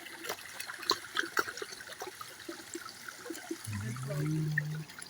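A small stream of water trickling and splashing, with many small drips and gurgles, running faster after sticks blocking it have been cleared.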